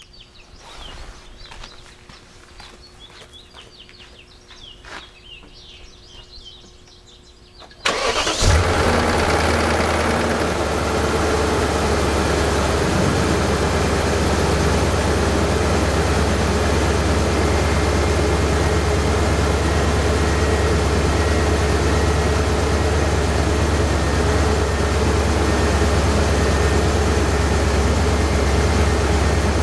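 A 2001 BMW E39 M5's 4.9-litre V8 starts from cold about eight seconds in, catching at once, then settles into a steady cold idle.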